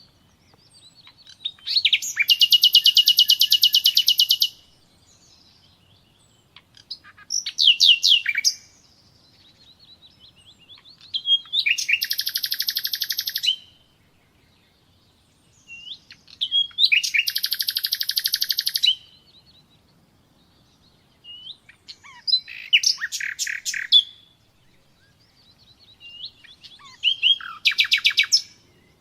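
Nightingale singing: about six separate phrases a few seconds apart, several of them rapid runs of the same note repeated for one to two seconds, with short pauses between.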